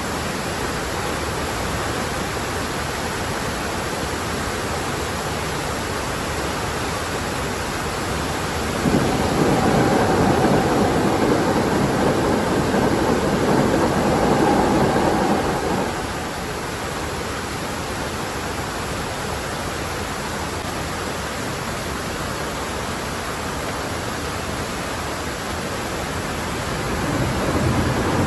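A Hankyu electric train passes, louder with a rumbling stretch for about seven seconds in the middle and building again near the end. Underneath is a steady rushing noise of running water.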